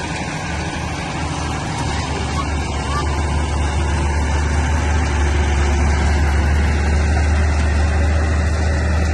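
Bulldozer's diesel engine running steadily with a deep, low drone, growing a little louder a couple of seconds in.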